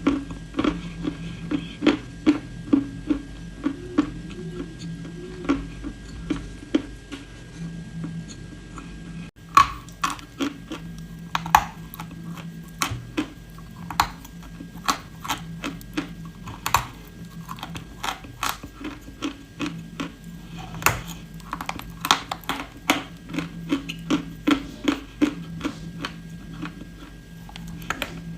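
Close-miked crunching and chewing of dry clay: irregular sharp crunches several times a second over a low steady hum, with a brief break about nine seconds in.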